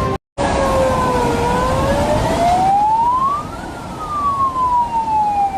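Emergency vehicle siren wailing: its pitch dips, climbs slowly to a peak about three and a half seconds in, then falls again, over a steady rushing background.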